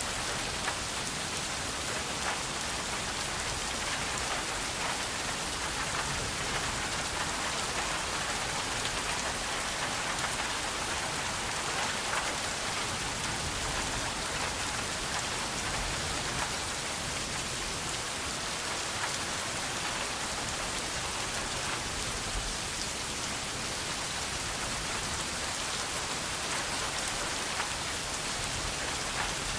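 Steady rain falling, a dense even patter of drops hitting a surface with many fine ticks, no thunder.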